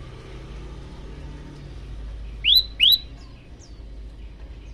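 Male olive-backed tailorbird calling for a female: two loud, sharp upslurred notes in quick succession about halfway through, and a third at the very end. Fainter chirps from other birds sound behind them.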